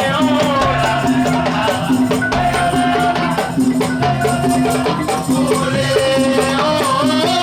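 Madurese daul (tong-tong) music played by a percussion ensemble: a repeating pattern of low drum notes and clattering shaker-like percussion under a wavering, bending melody line.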